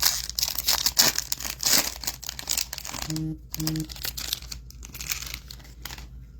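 Foil wrapper of a trading card pack being torn open and crinkled, a dense crackle that thins out toward the end. Two short, steady low tones sound about half a second apart a little past the middle.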